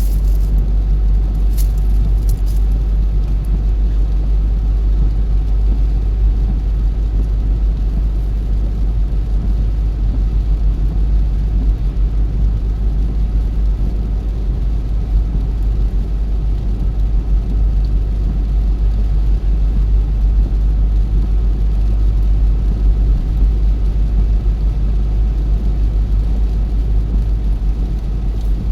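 Car driving at steady speed: an even, low rumble of tyre, road and engine noise with no marked change.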